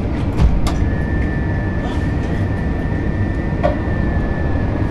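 Subway car running: a steady low rumble with a couple of sharp knocks about half a second in, and a steady high whine from about a second in.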